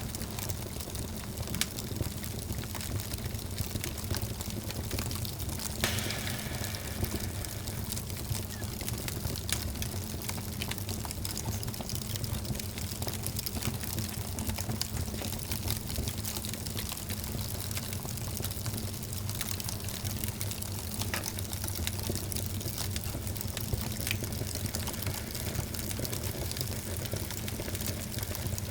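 Wood fire burning in a fireplace: a steady hiss and rush of flames with scattered small crackles and pops, and a somewhat louder crackle about six seconds in.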